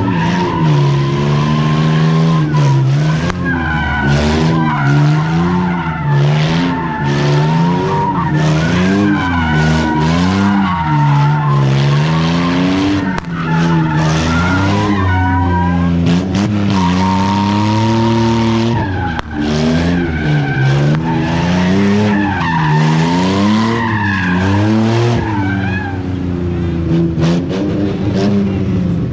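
A car's engine revving up and down over and over while its tyres squeal and skid, as in a car doing continuous donuts or burnouts.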